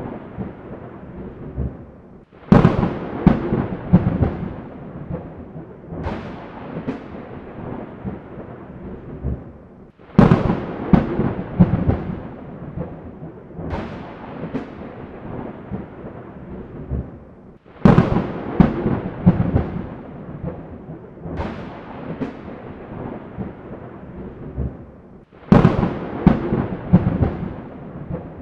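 Thunderclaps, each a sharp crack falling away into a long low rumble, with a weaker rumble a few seconds later; the same pattern repeats about every seven and a half seconds, four loud claps in all.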